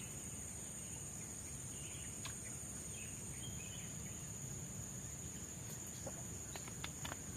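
Forest ambience: insects drone steadily at a high pitch, with scattered faint bird chirps and a few light clicks near the end.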